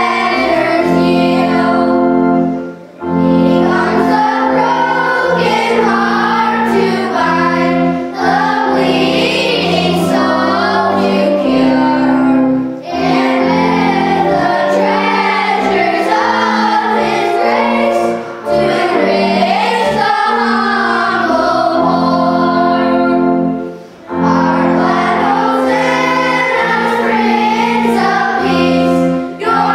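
A choir with children's voices prominent singing a hymn over steady instrumental accompaniment, in phrases of about five seconds with short breaks between them.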